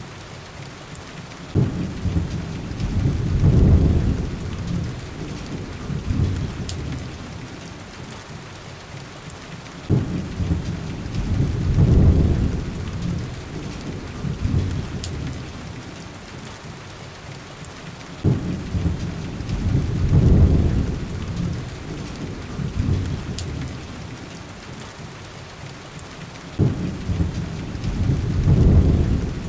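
Steady heavy rain on window glass. A deep rumble starts abruptly, swells and fades four times, about every eight seconds, with a few faint sharp ticks.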